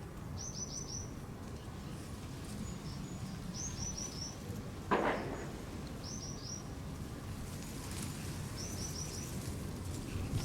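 A small bird calling in short bursts of three or four quick, high notes, repeated four times, over steady low outdoor background noise. One brief, louder noise cuts in about five seconds in.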